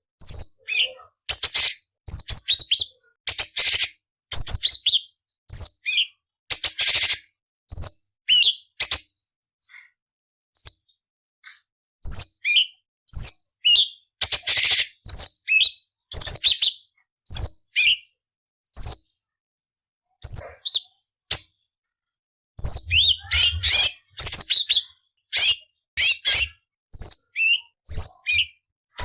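Orange-bellied leafbird (cucak cungkok) singing: quick runs of sharp chirps and harsh, rasping scratchy notes. The song comes in phrases broken by two pauses of a couple of seconds, about a third of the way in and about two-thirds of the way through.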